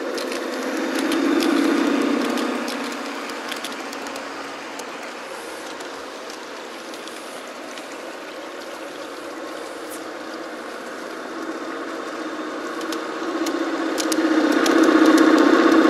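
Garden-scale model railcar's motor and gear drive humming as it runs along the track, with small sharp clicks from the wheels on the rails. The hum grows louder about a second in, fades through the middle, and swells again, loudest near the end.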